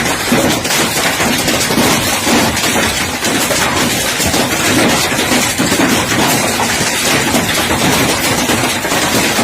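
Heavy hail coming down: a dense, steady clatter of hailstones striking hard surfaces.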